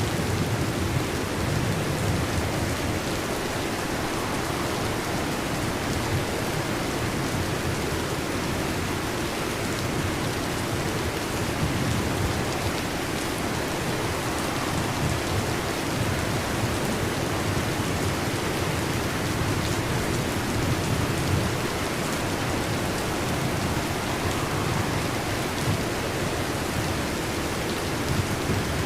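Heavy rain falling steadily, with a low rumble of thunder underneath that swells and fades without any sharp cracks.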